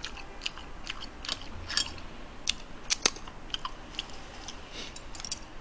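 A man chewing a mouthful of stir-fried pork and pepper strips with steamed bun, with soft wet clicks and smacks of the mouth at irregular moments.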